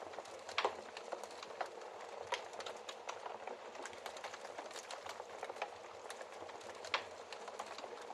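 Wood fire crackling in a fireplace: a steady hiss with irregular sharp pops and snaps, two louder pops about half a second in and near the end.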